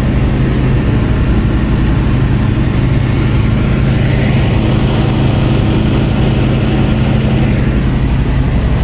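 Light aircraft's piston engine and propeller running at a steady cruise, a constant loud drone.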